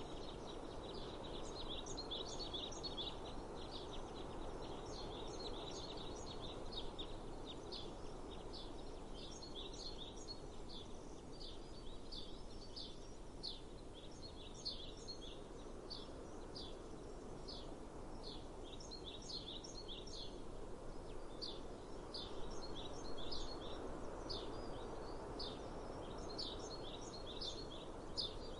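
Small birds chirping in many short, high notes throughout, over a steady low background noise.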